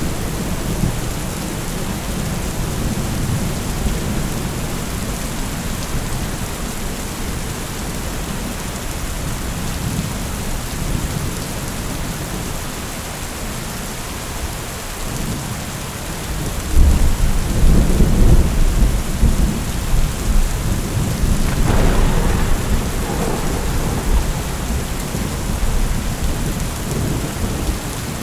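Heavy rain falling steadily in a thunderstorm. About halfway through, a long low roll of thunder builds in and rumbles on to the end, with a sharper crack of it a few seconds later.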